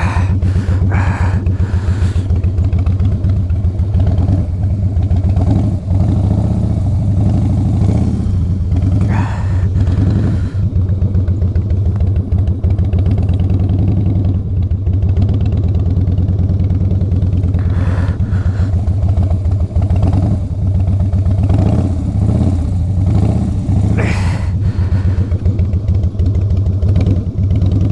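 Harley-Davidson V-twin engine running steadily at low revs through slow-speed manoeuvres, with its fast even pulsing beat and a few brief louder moments.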